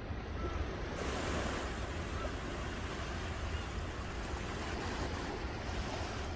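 Ocean waves breaking and washing on a shore in a steady rush, swelling louder about a second in.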